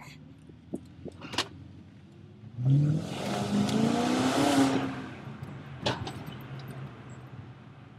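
BMW 540i's 4.4-litre V8 through a Bassani aftermarket exhaust, idling and then revved once: the pitch climbs for about two seconds and falls back to idle. The engine is still cold. A sharp click comes just before the rev and another just after it.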